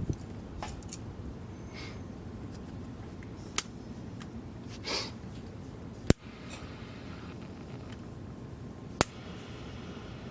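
Three sharp, very short clicks, a few seconds apart, over a steady low background noise, with a brief soft rustle between the first two.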